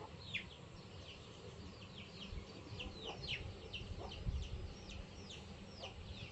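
Birds chirping: many short, high notes, each falling in pitch, two or three a second without a break, faint, over a low rumble.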